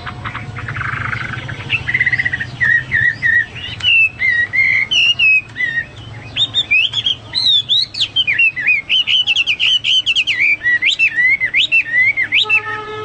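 Chinese hwamei (melodious laughingthrush) singing a long, loud run of varied whistled phrases that glide up and down, turning into quicker, trilled notes in the second half. The song opens after a brief harsh, rasping sound.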